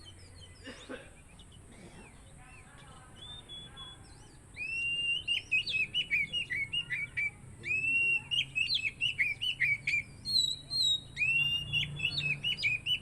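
Oriental magpie-robin (kacer) singing loudly: about three song phrases, starting some four seconds in, each opening with a rising whistle and breaking into quick, varied notes.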